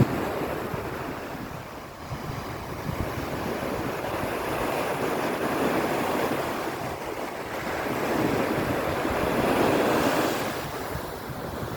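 Sea waves breaking and washing up a sandy beach, a continuous rushing surf that swells to its loudest about eight to ten seconds in before easing.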